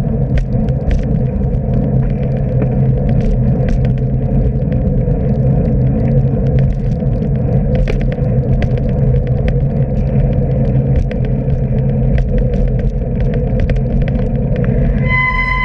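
Steady loud rumble of riding on a wet road, with scattered crackles and ticks throughout. A short high-pitched beep starts about a second before the end.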